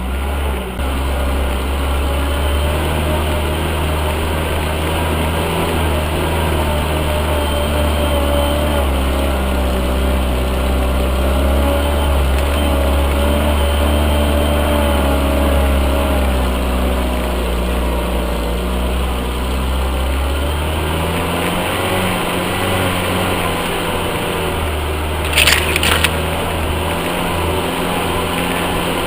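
UAZ off-road vehicle's engine running steadily, its pitch drifting up and down slightly as it works through mud. A few sharp knocks near the end.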